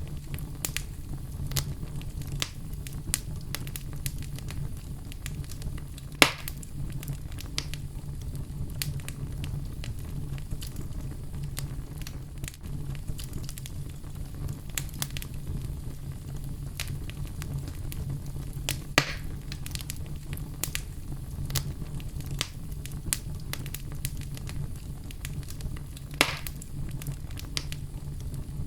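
Fire crackling in a fireplace: many small pops and snaps over a steady low rumble of the flames, with three louder sharp pops about six, nineteen and twenty-six seconds in.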